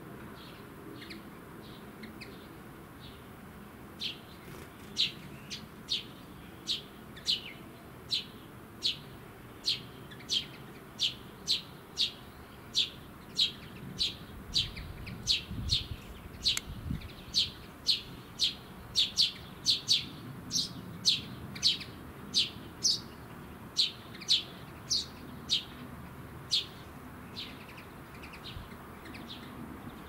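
A small songbird calling one short, sharp, high note over and over, about one and a half to two a second. The calls start a few seconds in and stop a few seconds before the end.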